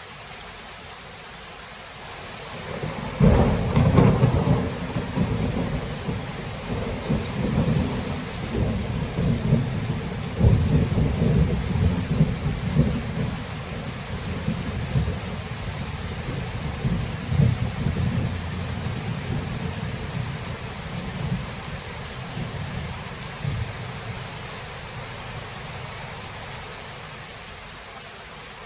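Steady rain with a clap of thunder about three seconds in. The thunder rolls on as a long low rumble, swells again several times, and fades away near the end.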